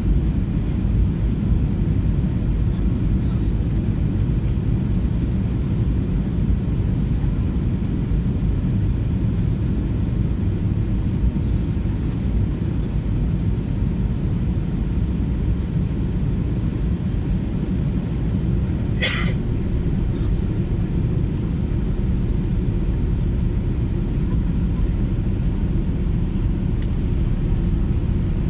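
Steady low rumble of airliner cabin noise during a landing, heard from inside the plane. About two-thirds of the way through there is one brief sharp sound.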